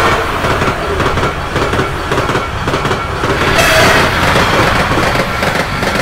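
Passenger train running past at close range: a loud, steady noise of wheels on rails, with a sharper hiss that swells briefly a little past halfway.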